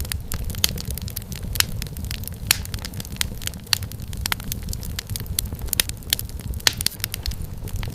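Wood fire crackling in a fireplace: frequent sharp, irregular pops and snaps over a steady low rumble of flames.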